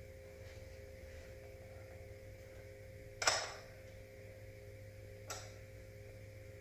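Chair parts knocking together as one side of a DXRacer office chair is fitted during assembly: a sharp knock with a short ring about three seconds in, and a lighter one two seconds later, over a steady low hum.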